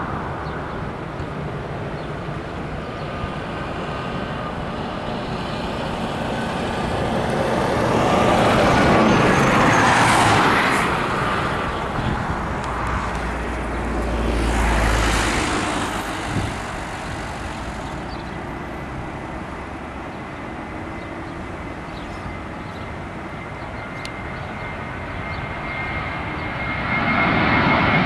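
Airbus A320 jet engines at takeoff power, a steady rushing roar that swells to its loudest about a third of the way in, eases off, and builds again near the end with a thin steady whine.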